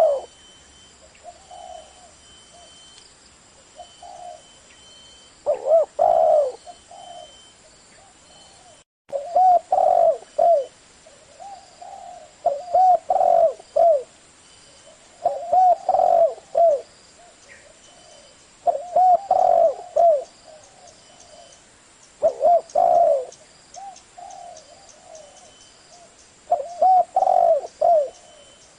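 Spotted dove cooing, its short phrase of a few notes repeated about every three seconds: a 'thổ'-voice song of the kind played to draw in wild doves.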